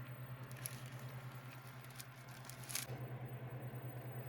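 A low steady hum that pulses quickly, several times a second, with a couple of faint clicks.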